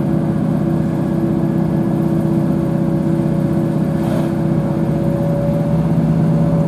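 Diesel multiple unit running under way, heard inside the carriage: a steady, loud engine and transmission drone with a low pulsing rumble and a couple of held tones.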